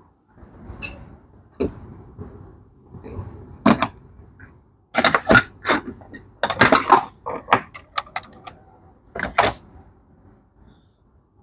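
Metal parts and hand tools clinking and knocking together during motorcycle clutch and flywheel assembly, with scattered sharp clanks that come quickest in a flurry about halfway through.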